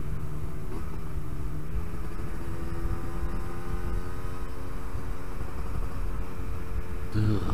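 Yamaha RD125LC YPVS two-stroke single-cylinder engine running at steady road speed, with low wind rumble on the microphone. Near the end a brief, louder sound drops sharply in pitch.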